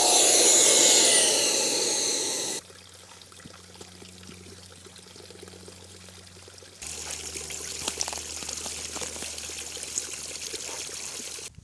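Electric air pump running loudly, its whine sliding slightly down in pitch, which stops abruptly about two and a half seconds in. After that come much quieter stretches with light clicks and handling noises.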